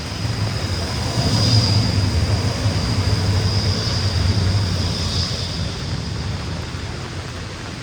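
A tram passing, its low rumble swelling and fading over a few seconds, with a thin high squeal of steel wheels on the rails through the middle. Steady rain hiss underneath.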